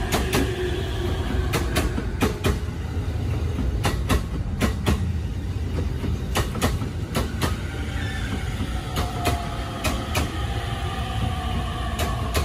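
Green-and-orange JR commuter electric train running along the platform: a steady low rumble with sharp wheel clacks over the rail joints, mostly in pairs as each bogie crosses. Faint whining tones slowly fall in pitch over the second half.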